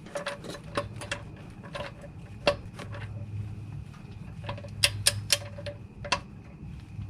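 Irregular light clicks and taps of hand tools being handled, a few sharper metallic ones about two and a half seconds in and around five seconds, over a steady low hum.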